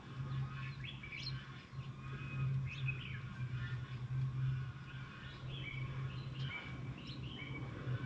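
Small birds chirping in quick, short calls, one after another, over a steady low hum.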